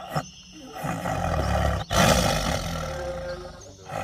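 Two long tiger roars, the first ending abruptly just before two seconds in and the second following straight after.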